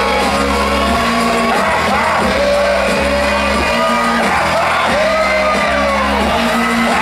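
Loud live rap-rock music in a large hall: a heavy bass line under shouted, sung vocals.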